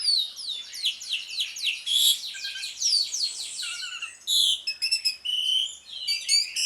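Asian pied starling (jalak suren) singing its fast 'ngriwik' twitter: an unbroken run of quick, high, downward-sliding whistled notes.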